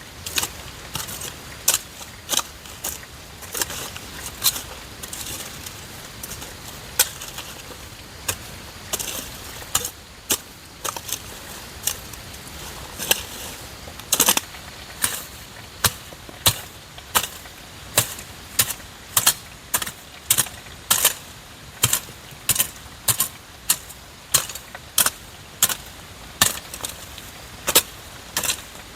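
A long series of sharp taps or knocks, irregular, about one to two a second.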